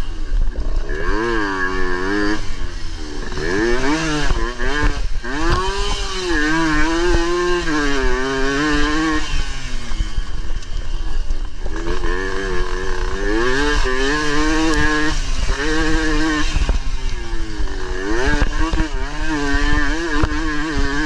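Suzuki AX100's small two-stroke single-cylinder engine revving hard under racing throttle. Its pitch climbs and drops again and again as the bike accelerates and backs off, over a constant low rumble of wind on the microphone.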